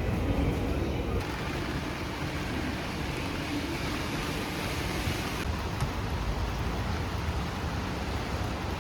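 Steady rushing noise of typhoon wind and rain, with a heavy low rumble, changing slightly in character about a second in and again a little past the middle.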